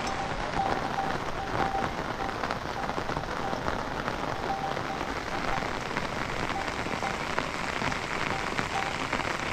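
Steady heavy rain, with many individual drops striking close by. A faint short tone repeats now and then behind it.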